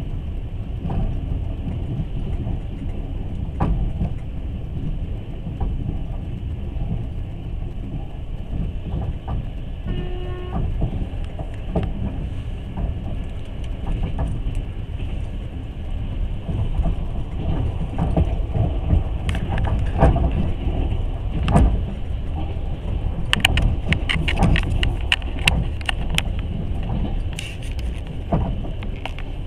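Passenger train running on rails, heard from inside the carriage at the window: a steady low rumble of wheels and car body, with clusters of sharp wheel knocks over rail joints in the second half. A brief pitched tone sounds about ten seconds in.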